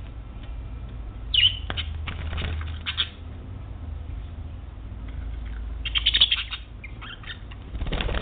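Pet budgerigar chirping: one sharp falling chirp about a second and a half in and a cluster of short chirps around six seconds, among scattered clicks. A rustling noise starts near the end.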